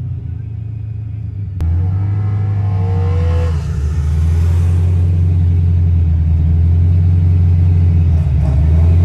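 Supercharged LS3 V8 in a stick-shift Pontiac GTO, heard from inside the cabin, running at low revs while the car creeps forward. A sharp click comes about a second and a half in. The engine then gets louder with a brief rise in revs before holding a steady low note.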